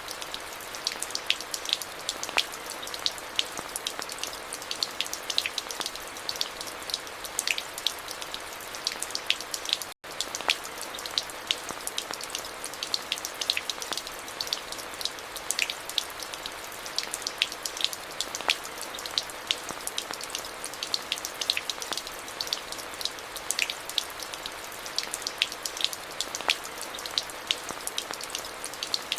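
Steady rain, an even hiss with many close individual drops ticking sharply. The sound drops out for an instant about ten seconds in.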